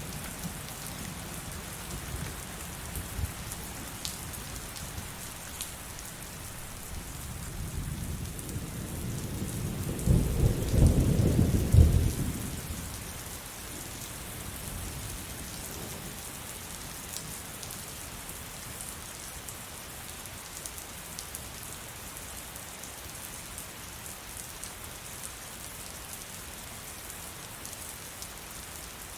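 Heavy rain pouring steadily throughout, with a long roll of thunder that builds about seven seconds in, cracks and rumbles loudest around ten to twelve seconds, then fades back into the rain.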